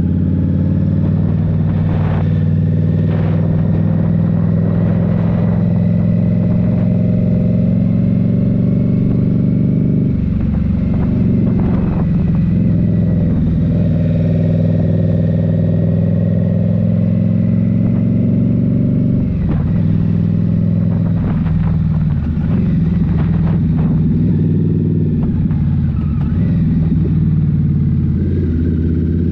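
2023 Indian Scout Rogue's liquid-cooled V-twin with a Rinehart slip-on exhaust running under way. The engine note stays steady, breaking and changing briefly about ten and twenty seconds in as the throttle or gear changes.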